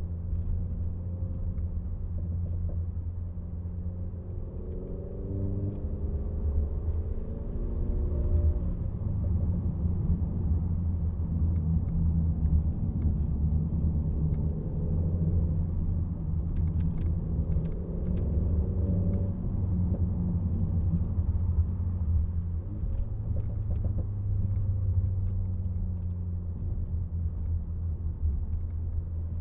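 Renault Mégane RS Trophy's turbocharged four-cylinder engine and exhaust droning low while driving, with the pitch climbing twice as it accelerates, about five seconds in and again near the middle.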